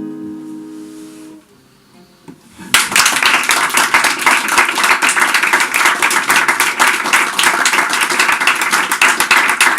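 The last chord of a handmade acoustic guitar rings out and fades away, then after a brief lull an audience breaks into loud, sustained applause.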